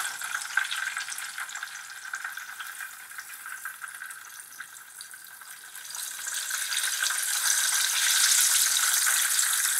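Breaded zucchini slices frying in a pan of hot oil: a steady sizzle with fine crackling. It dips in the middle and grows louder from about six seconds in.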